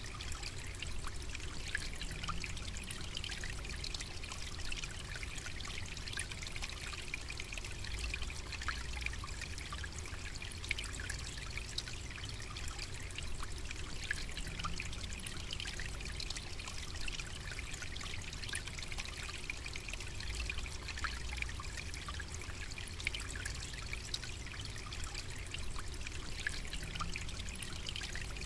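Water trickling steadily, full of small splashy clicks, over a low rumble.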